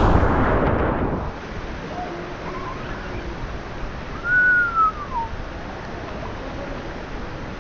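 River water rushing loudly for about the first second, then a softer steady river hiss. About four seconds in comes a single whistled call that rises and then falls.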